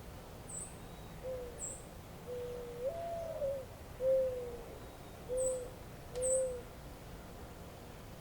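Bird calls: a series of five low hooting notes, the second long and wavering with a rise in pitch, and four short thin high chirps from a small bird, over a faint steady hiss.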